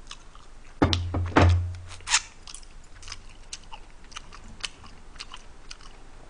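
Close-miked chewing of a mouthful of kimchi stew with rice: wet mouth smacks and clicks throughout. About a second in come a few louder knocks over a low hum.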